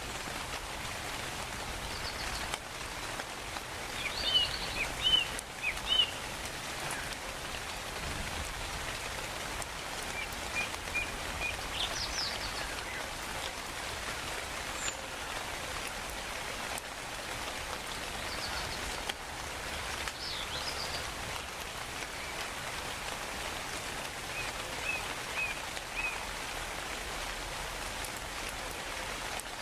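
Steady rainfall hissing, with short high bird chirps and calls breaking through now and then, a cluster of them loudest about four to six seconds in.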